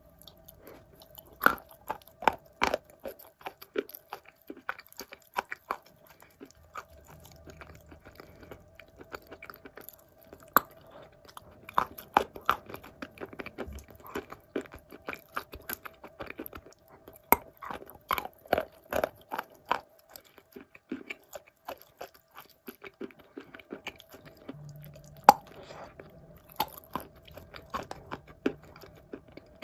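Wet blue Uzbek clay being bitten and chewed: soft crunches in quick clusters, with short pauses between bites. A faint steady hum runs underneath.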